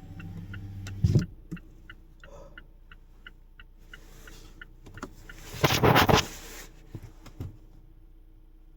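Mazda CX-5's engine idling with a fast, even ticking, then switched off about a second in: the hum stops with a thump. Scattered ticks follow, and a louder burst of noise comes about six seconds in.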